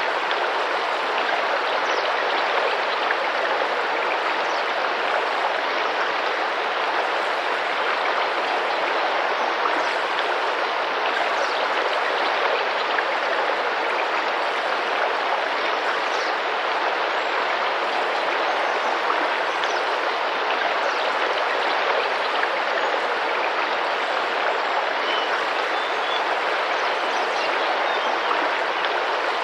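Tropical rainforest river flowing and splashing gently over rocks, a steady, unbroken rush of water.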